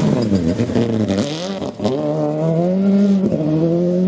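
Rally car engine accelerating hard through the gears. The pitch dips briefly, then climbs, with a quick gear change a little under two seconds in and another just past three seconds, and the revs rising again after each shift.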